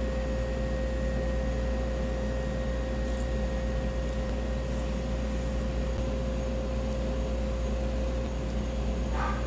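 Steady machine hum of restaurant equipment or ventilation, with a constant high whine over a low drone. There is a short squeak near the end.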